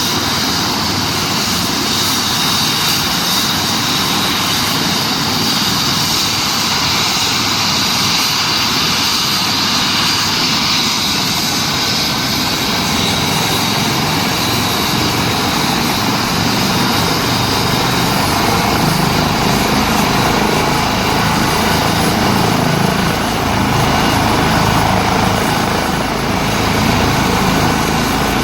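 Airbus EC135 helicopter running with its twin turbine engines and rotor, a steady loud sound with a high turbine whine. The low rotor sound grows stronger in the second half.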